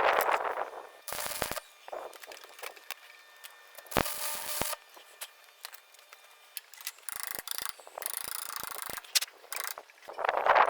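Workshop handling noises: scattered clicks and knocks of tools and parts being handled, with several short scraping or hissing bursts, and louder grating noise at the start and again near the end.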